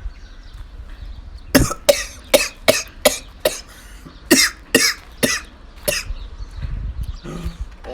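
A person coughing in a fit of about a dozen short, sharp coughs in quick succession, which stop about two seconds before the end.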